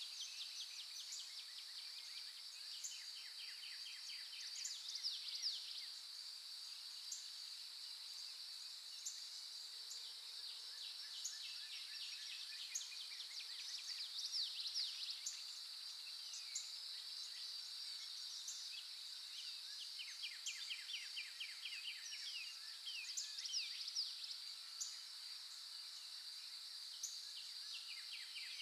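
A steady, high-pitched insect chorus drones throughout, with frequent bird chirps and quick repeated trills over it.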